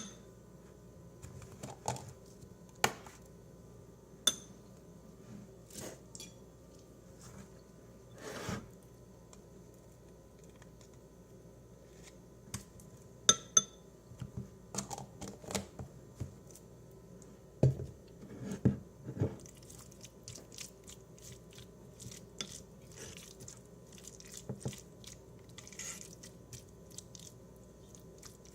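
Kitchen handling sounds while making tuna salad: scattered sharp taps and clicks of utensils and dishes, with a few duller knocks about two-thirds of the way through and fainter crackly rustling near the end.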